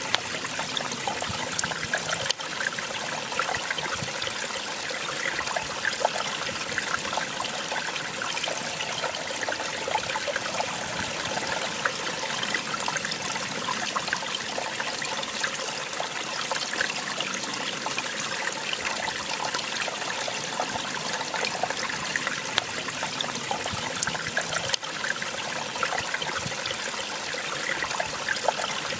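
Small waterfall splashing and trickling, a steady, even rush of falling water.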